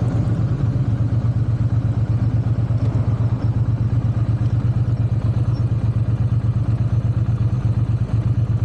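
Triumph parallel-twin motorcycle engine running steadily with an even, fast pulsing exhaust beat, holding a constant pitch without revving.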